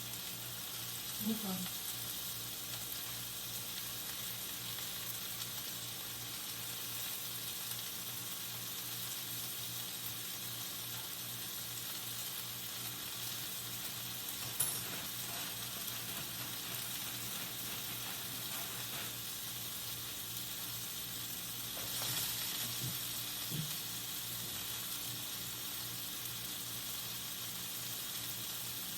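Food frying in a pan, sizzling steadily, over a low steady hum, with a single sharp click about halfway through.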